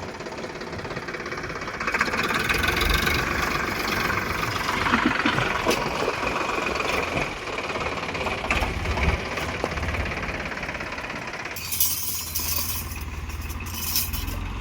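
Tractor's diesel engine running with a knocking chug and some rattle; near the end the engine note drops back and a hissing rush takes over.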